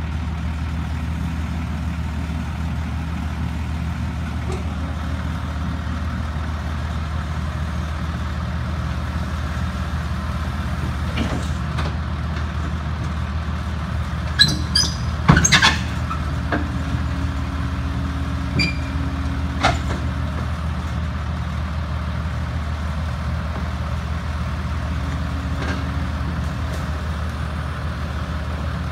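Heavy diesel engine running at a steady speed, with a few sharp metallic clanks about halfway through and once more a few seconds later.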